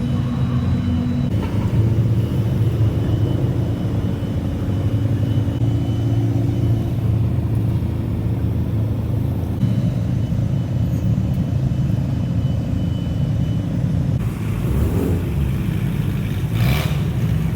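Low exhaust rumble of modified cars driving slowly at low revs, its pitch shifting a few times, with a brief rush of noise near the end.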